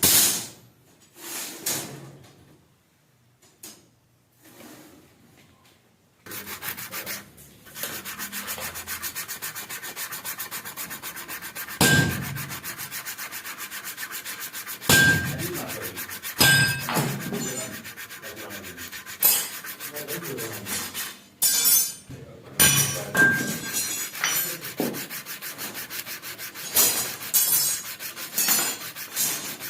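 Sanding on a rusty steel knife blade. After a few knocks and a short lull, a steady rasping starts about six seconds in, with repeated louder strokes.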